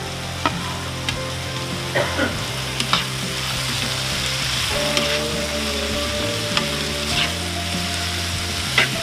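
Vegetables sautéing in hot oil in a wok: a steady sizzle, with a metal spatula clicking and scraping against the wok several times as the freshly added carrots are stirred in.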